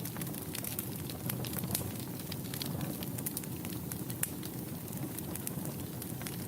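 Wood fire burning steadily in a fireplace, with a low rumble and frequent irregular crackles and pops.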